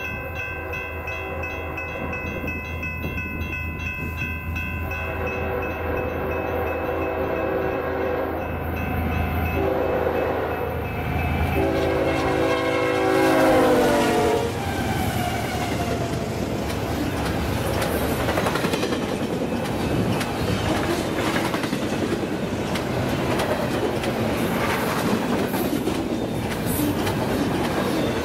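Diesel freight locomotive horn sounding several blasts as the train approaches, the last long blast dropping in pitch as the locomotive passes. The train then rolls by with a steady rumble and wheels clacking over rail joints.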